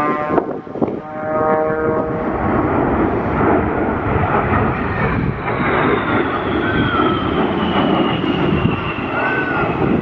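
Thunderbirds F-16 fighter jet passing: loud jet engine noise that builds over the first couple of seconds and then holds, with a high whine slowly falling in pitch as the jet goes by.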